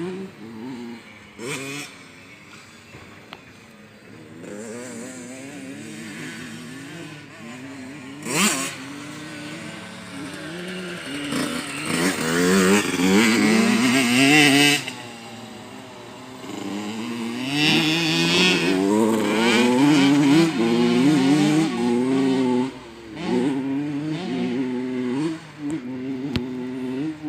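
Motocross dirt bike engine revving up and down as it is ridden, quieter for the first several seconds and loudest in two long stretches in the middle and later part. A sharp knock about eight seconds in.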